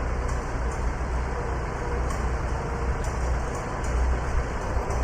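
Farmall Super A tractor's four-cylinder engine running steadily as the tractor is driven, a continuous low rumble.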